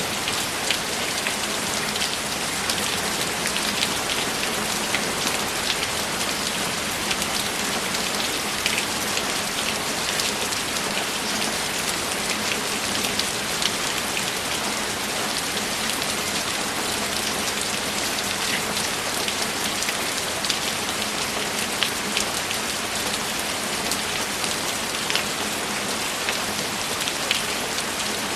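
Steady rain: an even hiss with many separate drops ticking sharply, scattered irregularly.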